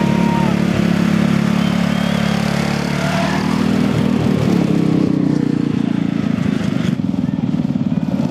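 Riding lawn mower engines running together: a steady low hum of several engine notes that wavers and shifts in pitch about three to five seconds in, then changes abruptly near the end.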